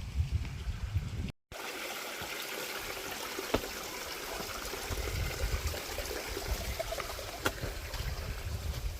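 A shallow stream trickling over rocks: a steady hiss of running water. Wind buffets the microphone at times, a few sharp clicks are heard, and the sound drops out completely for a moment about a second and a half in.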